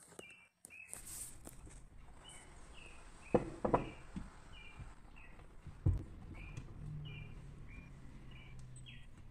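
A small bird chirping over and over in short, high chirps, about two a second. A spatula knocks a few times against a stainless steel bowl, loudest about three and a half seconds in and again near six seconds, as flour is stirred into the batter.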